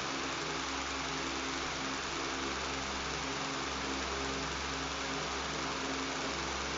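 Electric fan running steadily: an even rush of air with a low buzz and hum underneath.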